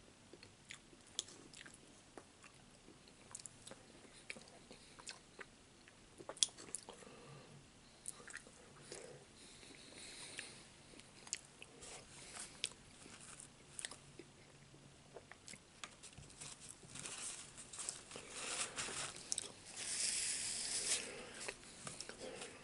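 A man chewing a mouthful of chicken and dumplings close to the microphone: soft wet chewing and mouth smacks with scattered small clicks, louder near the end.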